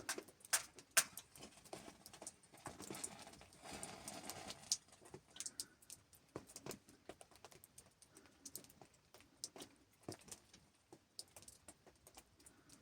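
Faint, irregular light knocks and clicks, scattered unevenly.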